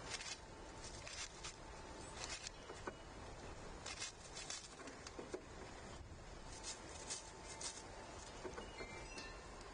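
Small animals feeding on a wooden-composite platform feeder: irregular soft taps and scratches, one or two a second, as beaks and claws hit the board and seed. A brief small bird chirp near the end.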